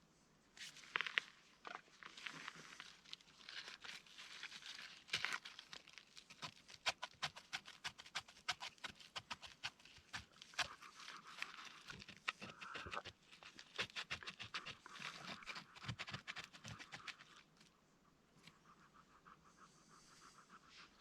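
A dog panting close by, with a dense run of quick, irregular clicks and crunches that dies down near the end.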